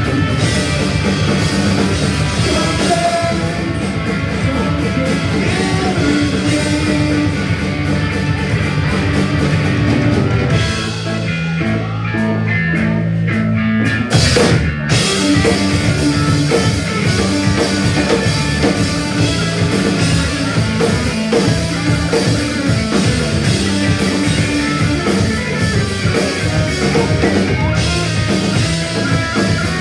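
Live punk rock band playing: distorted electric guitars, bass, drums and singing. About a third of the way in, the drums and upper sounds drop out for about three seconds, leaving only low held notes, then the full band comes back in with a hit.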